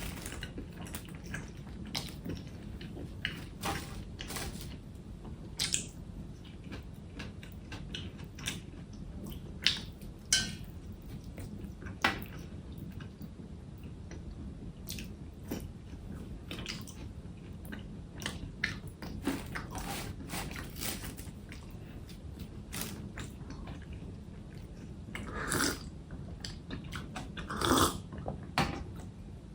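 A person chewing and biting food close to the microphone: irregular wet clicks and smacks of eating, a few louder than the rest, over a low steady hum.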